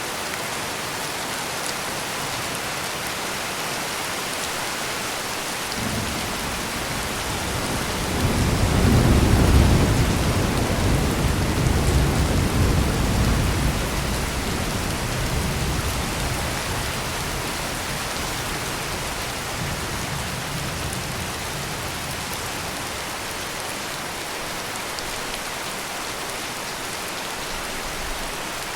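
Heavy rain falling steadily, with a roll of thunder that begins about six seconds in, swells to its loudest a few seconds later and rumbles away over the next several seconds.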